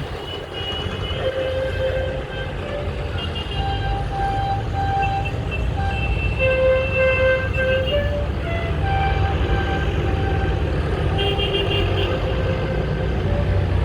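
Vintage tractor engines running with a steady low rumble, over which horns toot in a string of short notes at different pitches.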